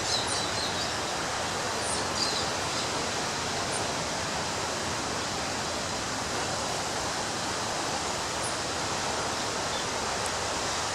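Ocean surf breaking on a beach, a steady rushing roar with no distinct single crashes, and a few faint short high chirps over it.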